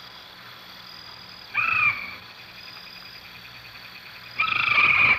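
Two short pitched animal calls, one about a second and a half in and a longer, rasping one near the end, over a faint steady hum of night insects.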